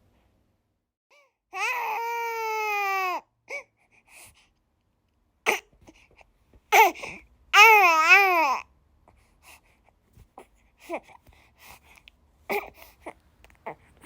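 A two-and-a-half-month-old baby fussing in its sleep: one long wail about two seconds in, a few short fretful cries, then a second wavering cry about eight seconds in, trailing off into small whimpers.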